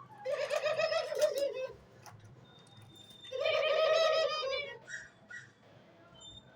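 A dove cooing: two drawn-out, wavering coos about a second and a half each, the second starting about three seconds after the first.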